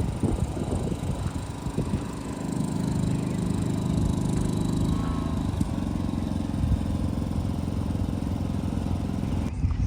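Engine of a vintage truck running steadily at idle, its note shifting slightly about five seconds in.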